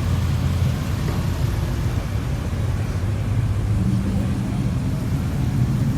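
Car engines running at low revs, a steady low hum, with another engine's note coming in about four seconds in.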